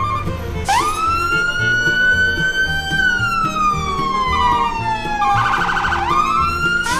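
Background music with a low, steady beat, overlaid by a siren-like whistling tone. The tone slides up just under a second in, holds and creeps higher, then falls slowly for a couple of seconds, warbles briefly about five and a half seconds in, and slides up again near the end.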